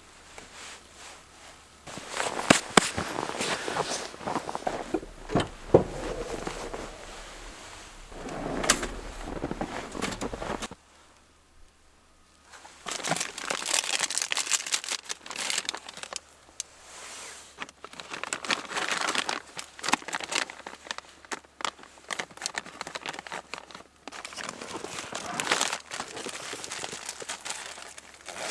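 Rustling and crinkling handling sounds in irregular bursts with sharp clicks, broken by a brief pause about halfway through.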